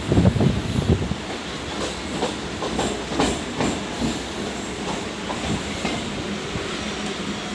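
Suburban electric local train running, its wheels clattering over the rail joints in a quick, irregular series of knocks over a steady rumble, loudest in the first second.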